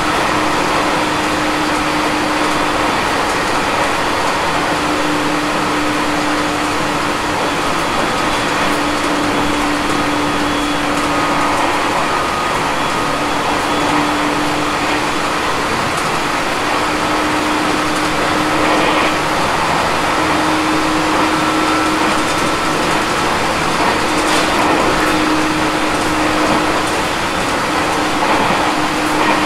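Aoimori Railway 701-series electric train running between stations, heard from inside the car: a steady rolling rumble of wheels on rail with a low hum that comes and goes every couple of seconds.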